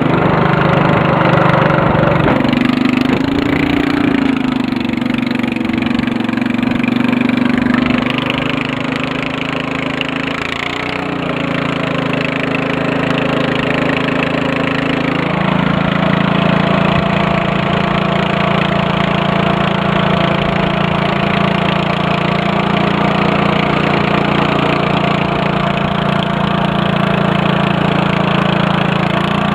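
Murray riding lawn mower engine running steadily under load while driving, its pitch shifting a few times as the engine speeds up and slows, with a dip around eleven seconds and a step up around fifteen seconds.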